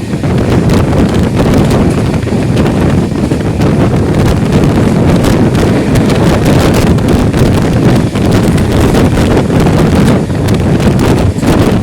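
Wind rushing over the microphone aboard a moving express passenger train. A loud, steady rumble is broken by frequent short clicks and rattles.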